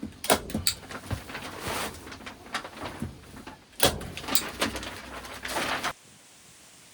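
A busy run of irregular knocks, clatters and scrapes, as of things being handled and moved, cutting off suddenly about six seconds in.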